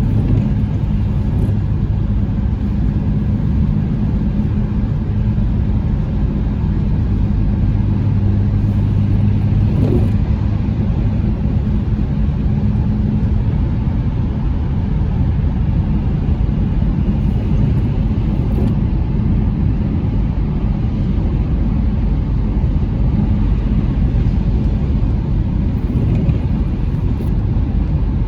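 Steady vehicle road noise: a constant low rumble with an unchanging hum, with no revving or change in speed.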